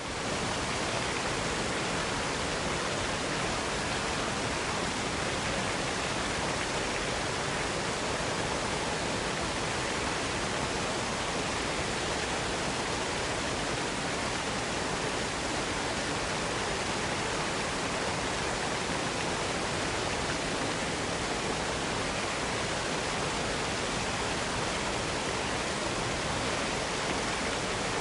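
Waterfall cascade: water rushing in a steady, unchanging roar that is full from low to high.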